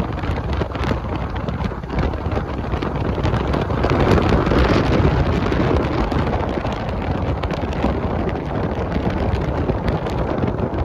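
Wind buffeting the microphone on a moving motorcycle, with the engine and road noise running underneath; the wind noise swells louder about four seconds in and eases after a couple of seconds.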